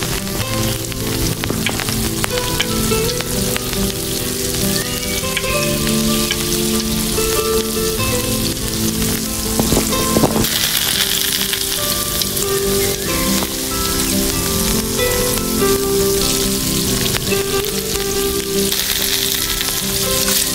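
Food frying and sizzling in a tiny pan, the sizzle growing louder and brighter about halfway through, under background music.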